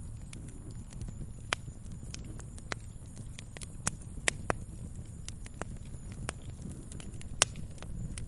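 Wood fire crackling in a fireplace: irregular sharp pops and snaps over a low, steady rumble of flame, with a louder pop near the end.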